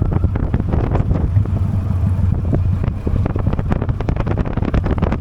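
Honda Steed V-twin motorcycle engine running steadily under way, with wind buffeting the microphone in short, irregular gusts.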